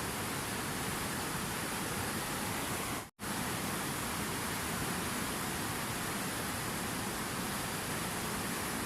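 Steady rush of flowing water, even and unbroken, that drops out to silence for a split second about three seconds in before resuming unchanged.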